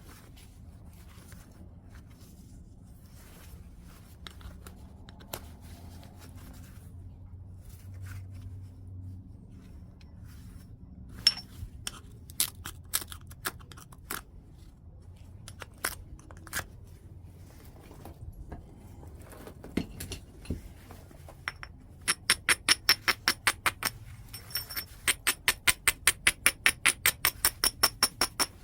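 Knapping on a large piece of white chert: faint scraping at first, then scattered sharp clicks of stone on stone. Over the last few seconds these give way to a fast, even run of light, ringing taps, about four or five a second, pausing briefly once.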